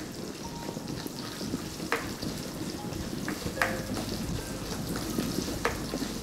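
Garlic, ginger, green chillies and curry leaves sizzling in hot oil in a pan as they are fried. A spatula stirring them knocks against the pan about three times.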